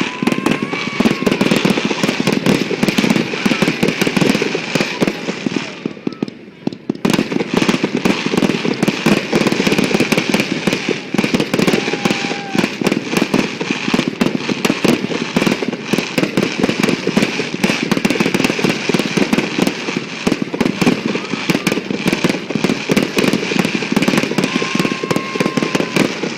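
Large aerial fireworks show: a dense, continuous barrage of booms and crackling bursts, with a short lull about six seconds in.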